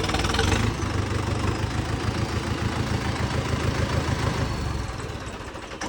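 Tractor diesel engine running steadily at low revs, easing off a little in level near the end.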